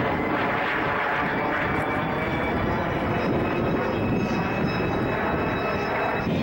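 Airplane engine noise, a steady dense sound with faint steady tones and no clear rise or fall.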